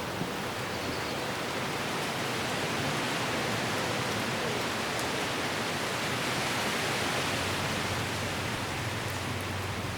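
Wind blowing through trees, a steady rushing hiss of leaves that swells over the first several seconds and eases off near the end.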